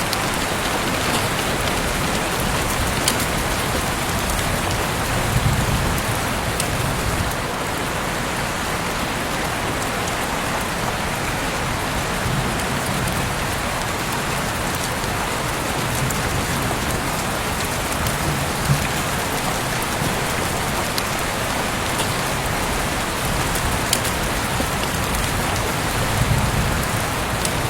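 Heavy rain falling steadily outside an open window, a dense even hiss with scattered sharper drop ticks and a few brief low swells.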